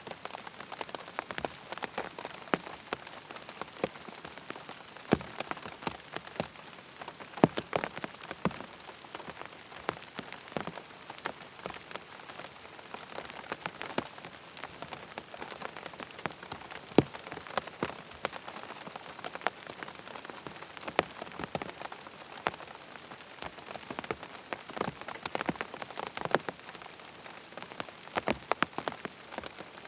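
Steady rain falling, with many sharp, irregular drop impacts standing out close by over an even hiss.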